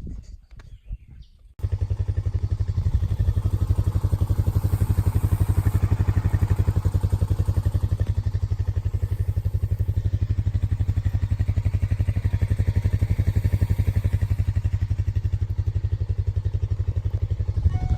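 An engine running steadily at idle with an even, rapid chugging pulse. It cuts in suddenly about a second and a half in.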